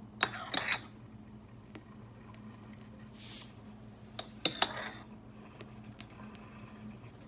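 Crockery and metal utensils clinking in two short clusters, one right at the start and one about four seconds in, with a brief soft hiss between them over a faint steady low hum.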